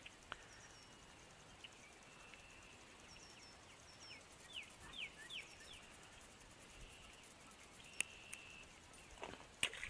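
Faint outdoor ambience with birds calling: a few quick falling chirps about four to five seconds in, over a thin, high, on-and-off trill. A few sharp clicks come about eight seconds in and near the end.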